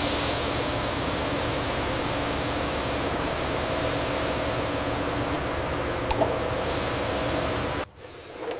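A steady hiss that starts abruptly and cuts off suddenly near the end, with a single faint click shortly before it stops.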